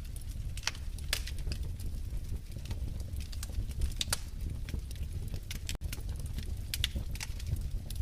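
Wood fire crackling in a fireplace: irregular sharp pops and snaps over a steady low rumble of the burning fire. The sound cuts out for a split second about three-quarters of the way through.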